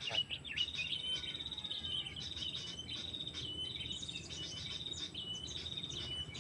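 Small songbirds calling: a fast, continuous high trill with short chirped notes repeated about twice a second.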